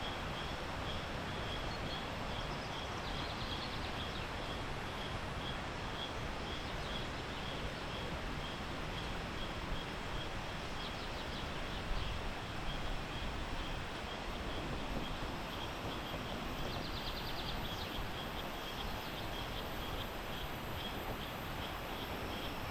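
Tropical rainforest ambience: a steady even rush, with a high call repeating about three times a second and a few short high trills from insects or birds.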